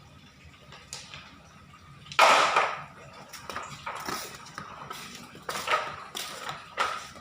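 Stones knocking and scraping against a plastic toy dump truck as it is played with: a louder rattle about two seconds in, then a run of short knocks and clicks.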